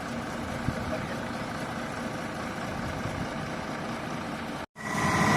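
Heavy vehicle engine running steadily at idle. Near the end there is a short cut, and then the engine sound comes back louder with a high whine.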